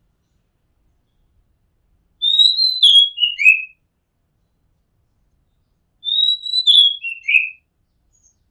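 Oriental magpie-robin singing: two matching whistled phrases about four seconds apart, each stepping down in pitch.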